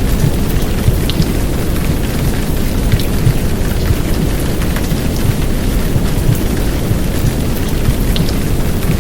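Heavy downpour of rain: a steady, dense wash of noise, strongest in a deep low rumble, with scattered sharp drop ticks.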